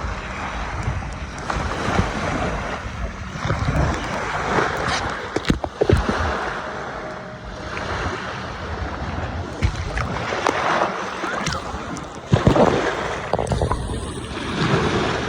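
Sea water washing and splashing, with wind buffeting the microphone in uneven gusts and a few sharp knocks.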